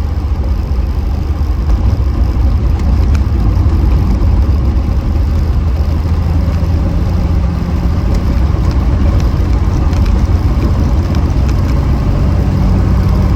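Reliant Scimitar GTE SE5a's 3.0-litre Ford Essex V6 running as the car drives along, heard from inside the cabin as a steady low drone. The engine note strengthens about six seconds in and again near the end.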